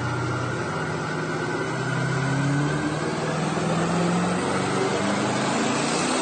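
Twin-turbo 426 Hemi V8 of a 2010 Dodge Challenger running under acceleration, its pitch slowly climbing. The pitch breaks off about four and a half seconds in, then climbs again.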